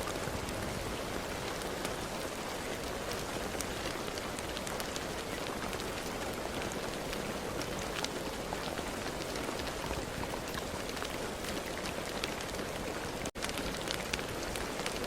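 Steady rain falling, with many sharp individual drop hits over a constant rushing hiss. The sound drops out for an instant about thirteen seconds in.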